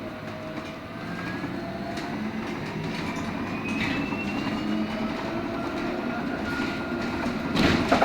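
LiAZ-6274 electric bus under way, heard from inside the cabin: a steady rumble of road and body, with a faint electric drive whine that rises in pitch twice. A loud knock or clatter comes near the end.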